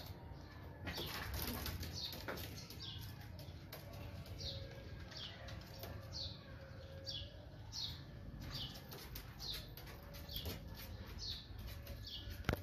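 A bird chirping over and over: short high notes, each falling in pitch, a little more than one a second, over a steady low rumble.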